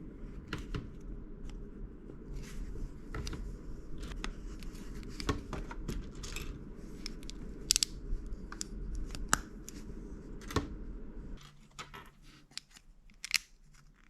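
Plastic building bricks being handled and snapped together: scattered sharp clicks and small rattles. Under them runs a steady low hum that stops about two seconds before the end.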